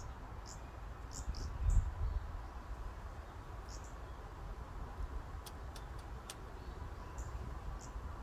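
Forest breeze, with a low wind rumble and a steady hiss, and short high bird chirps scattered through it. A few sharp high ticks come a little past the middle.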